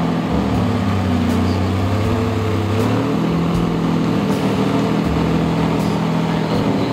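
Lamborghini Diablo GT's V12 engine running at a steady low idle as the car creeps forward at walking pace, with only slight shifts in pitch.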